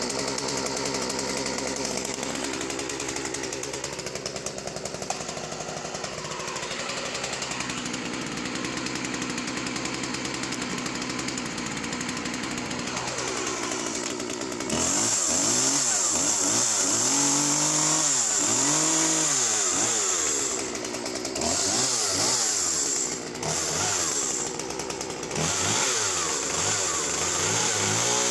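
Two-stroke chainsaw cutting solid wood. The engine runs steadily under load at first. About halfway in it gets louder, with a bright hiss from the chain in the wood, and its pitch swings up and down repeatedly as the throttle is worked through the cuts, dropping briefly a few times near the end.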